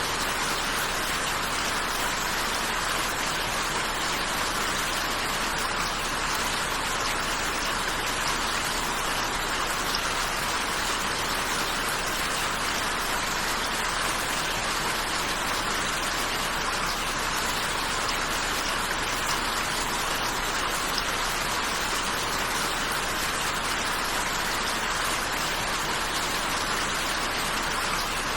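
Steady rain falling, an even hiss of drops without break or change.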